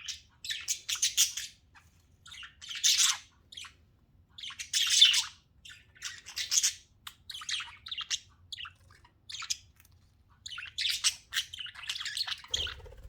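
Pet budgerigars chirping and chattering in short high-pitched bursts, about one burst every second or two.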